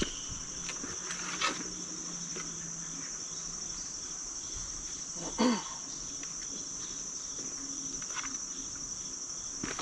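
Steady high-pitched insect chorus, with a few faint knocks and one louder thump about five and a half seconds in.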